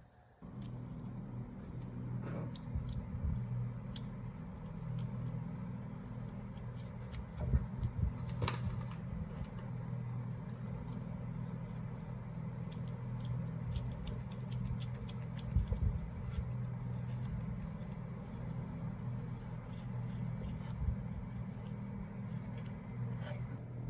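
A motor or machine starts about half a second in and runs with a steady low hum, with scattered light clicks and taps over it.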